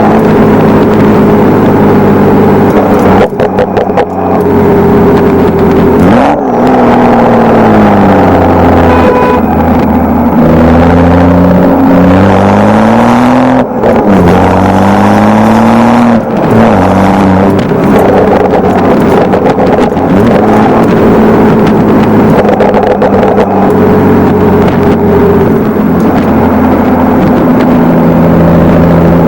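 BMW 335i's N55 turbocharged inline-six running through a stainless-steel aftermarket exhaust in sport mode, its note rising and falling several times, with sudden drops in pitch and a few sharp cracks early on.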